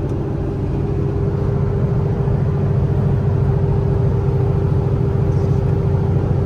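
Kenworth T680 semi-truck engine running steadily under load as it climbs a grade, heard from inside the cab as a low drone with a steady higher hum. It grows slightly louder about two seconds in.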